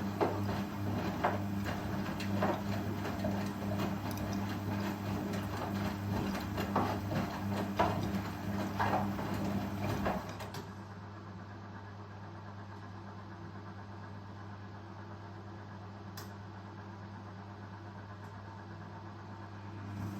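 Indesit Ecosense washing machine on its spin cycle: a steady hum with irregular knocks and clunks from the drum. About halfway through the knocks stop and the machine settles into a quieter, even hum, which grows louder again right at the end.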